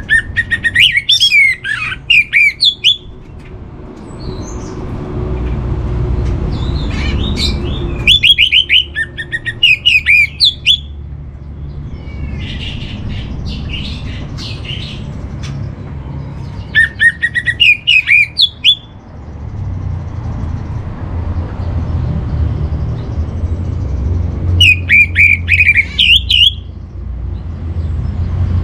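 Orange-headed thrush (anis merah) singing: four loud bursts of rapid, varied whistled phrases several seconds apart, with softer song between them. A steady low rumble runs underneath.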